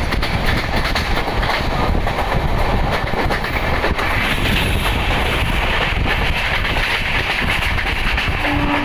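Paschim Express passenger train running along the track, a steady rolling rumble with the clickety-clack of wheels over rail joints. A short steady tone comes in right at the end.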